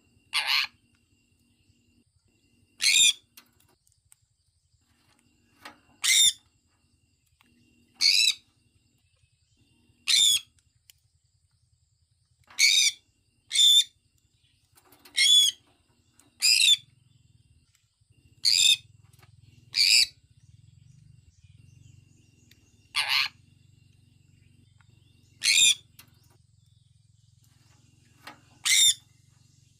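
Sun conure giving short, loud, high-pitched calls, about fourteen of them, one every two seconds or so.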